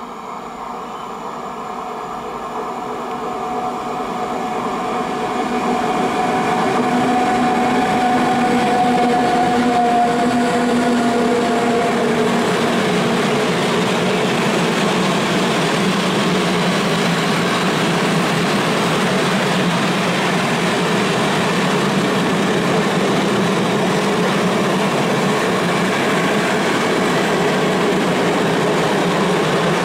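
A PKP Cargo ET41 twin-section electric locomotive approaching and passing with a freight train of open coal wagons, growing louder over the first six seconds; its motor whine drops slightly in pitch and fades as it goes by. Then the steady rumble of the wagons rolling past.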